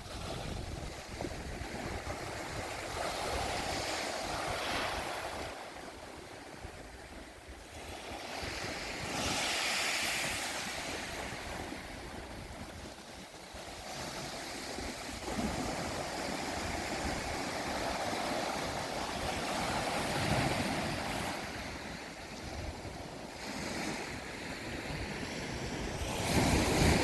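Sea waves surging and washing against a rocky shore, swelling and falling every few seconds, with wind buffeting the microphone.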